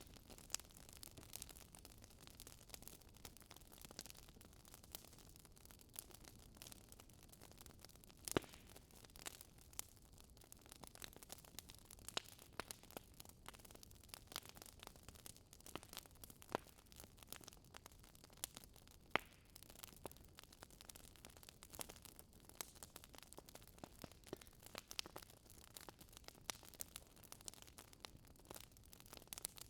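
Wood fire crackling in a fireplace: irregular sharp pops and snaps over a faint steady hiss, the loudest pop about eight seconds in.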